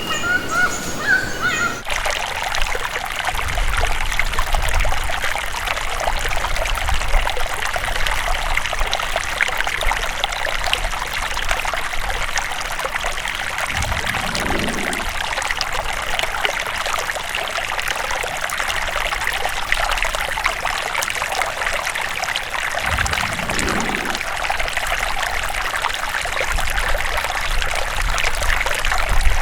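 Running water trickling and splashing in a steady hiss, as from a small stream. Birds chirp for the first couple of seconds before the sound cuts abruptly to the water, and two brief low rumbles come about halfway through and again about two thirds of the way in.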